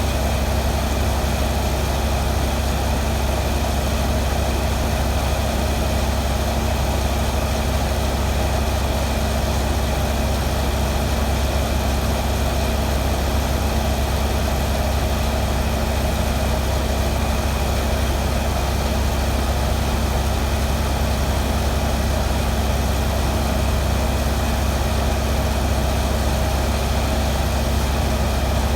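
Heavy engine idling steadily, its speed never changing.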